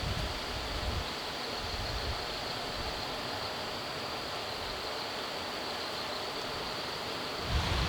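Steady outdoor hiss, like rushing water or wind, with low wind rumble on the microphone briefly early on and again near the end.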